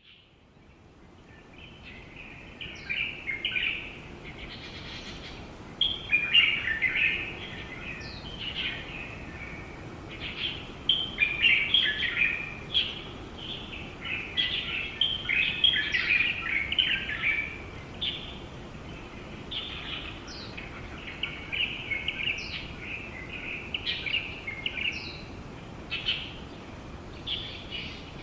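Many wild birds chirping and calling at once: a dense, continuous chatter of short overlapping chirps, with occasional higher down-slurred notes. It fades in over the first couple of seconds.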